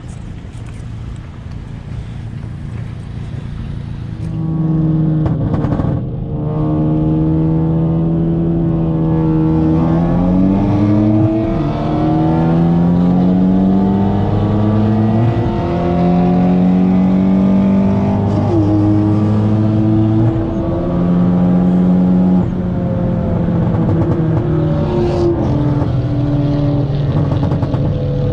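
Big-turbo Ford Focus ST (Garrett GTX2867R Gen 2 turbocharger) accelerating hard at full throttle, heard from inside the cabin. The engine note climbs, then drops back at each gear shift, several times over. It gets much louder about four seconds in as the pull starts.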